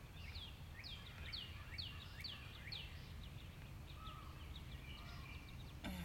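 A songbird singing a run of quick down-slurred whistled notes, about two a second, fading to fainter notes about halfway through, over a steady low outdoor rumble.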